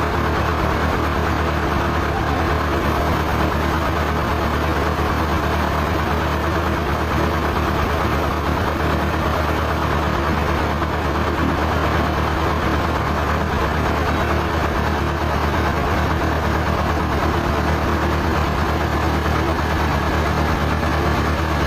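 Sawmill machinery running steadily, an engine-like drone with a constant low hum that does not change.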